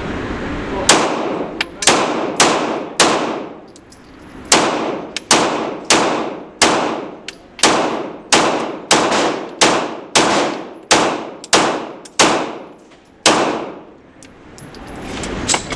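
Semi-automatic firearm shots at a shooting range, about twenty in steady succession at roughly two a second, each with a sharp crack and a ringing echo. The string pauses near the end before one last shot.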